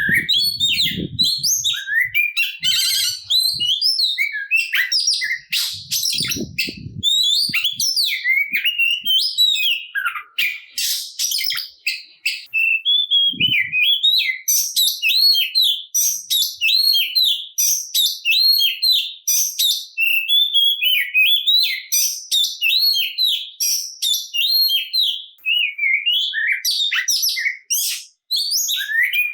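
Oriental magpie-robin (kacer) singing a long, unbroken, loud song in full fighting voice, packed with varied mimicked phrases and quick chips. From about halfway, the song settles into a run of repeated arched whistled notes.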